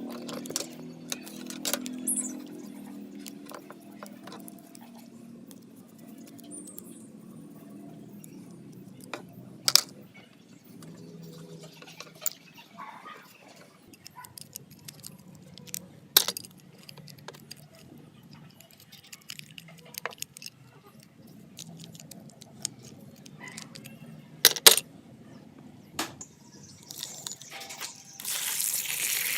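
Scattered clicks, taps and clinks of small metal fan parts being handled, with a short hiss near the end.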